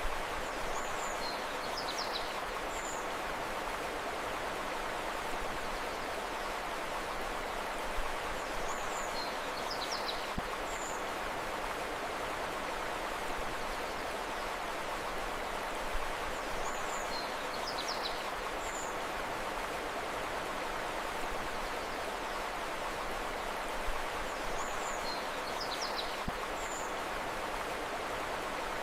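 Steady rush of flowing river water, with a short, high bird chirping phrase recurring about every eight seconds, four times over.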